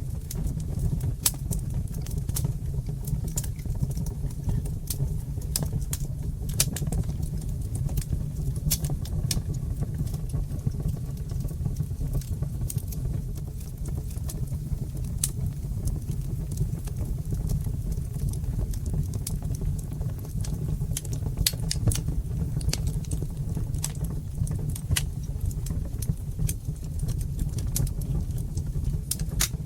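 Wood fire in a fireplace burning with a steady low rumble and frequent sharp crackles and pops scattered irregularly throughout.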